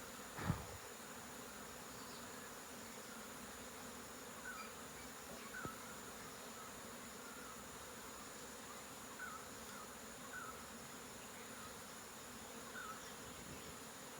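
Honeybees buzzing steadily around the hive. There is a brief thump about half a second in, and faint short chirps recur every second or two.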